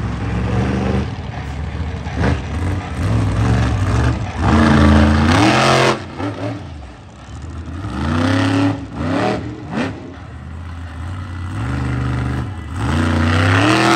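Monster truck engine revving hard in repeated surges, its pitch climbing and dropping back several times. The loudest surge comes about five seconds in.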